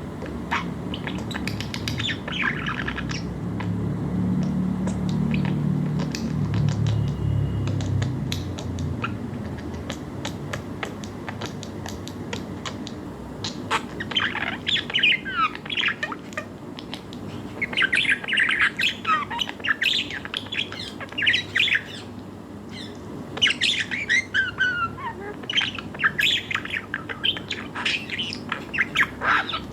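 Budgies chirping and warbling in quick runs of short sharp notes, dense from about halfway through. Before that a low hum with scattered faint clicks.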